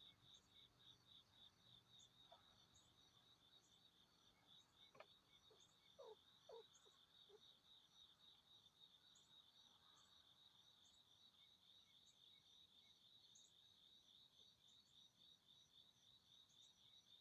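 Faint insect chirping, a steady train of rapid, even pulses that runs on unchanged, with a few short falling chirps about five to seven seconds in.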